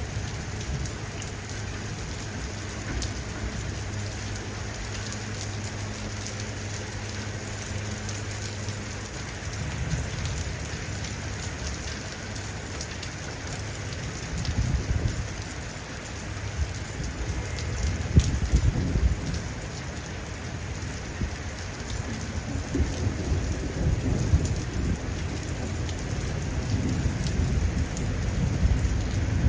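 Steady rain falling, with distant thunder rumbling in low, rolling swells several times over.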